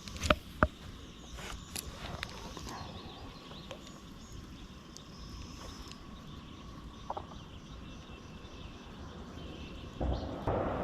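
Quiet outdoor ambience on the water: a few sharp clicks and knocks in the first two seconds, then a faint steady background with a few faint high chirps.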